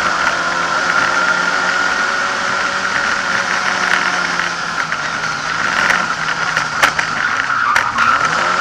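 Lada 2101 rally car's engine running under load, heard from inside the cabin, with body rattles and a few sharp knocks late on. Near the end the engine note drops and then climbs again.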